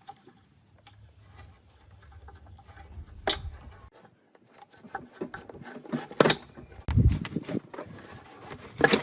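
Irregular knocks, clicks and rubbing of parts being handled on a workbench, the loudest knocks a few seconds apart, with a low steady hum in the first few seconds.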